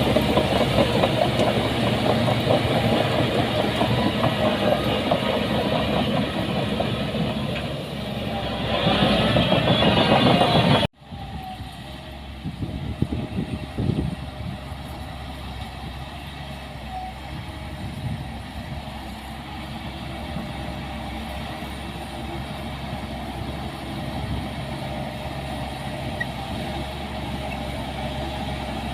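Diesel engine of heavy construction machinery running, growing louder as it revs up about eight seconds in. About eleven seconds in the sound cuts off abruptly and gives way to a quieter engine running, with a few knocks shortly after.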